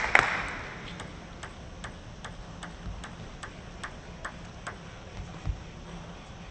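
Applause dying away, then a table tennis ball bounced steadily, light even ticks about two and a half a second that stop near the end, with one low thump.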